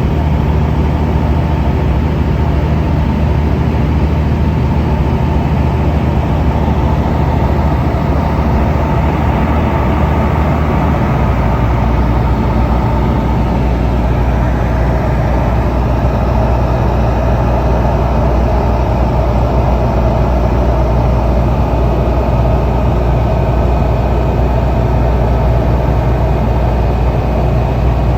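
Tecnam P2002JF light aircraft's engine and propeller running steadily in flight, a continuous loud drone. Its low tone shifts slightly about eleven seconds in, a small change in engine speed.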